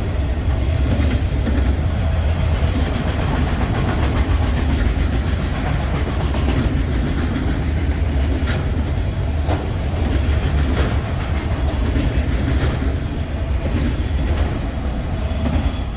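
Freight train cars, autoracks carrying vehicles, rolling past close by: a steady heavy rumble with scattered wheel clicks over the rail joints. The rumble drops off at the very end as the train clears.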